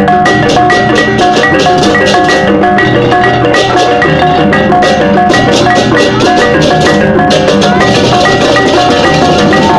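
Balinese baleganjur gamelan playing: bronze gong-chimes strike short repeated notes in a fast, driving rhythm over drums and clashing cymbals.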